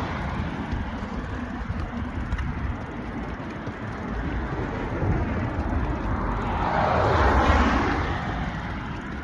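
Rumbling street and riding noise on a moving ride, with a vehicle swelling past about seven seconds in and fading away.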